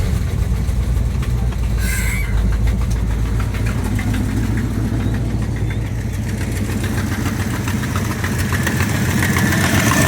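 1978 Jeep J20 engine idling steadily just after starting, with a burned-off spark plug wire pushed back on, to check whether its popping misfire goes away.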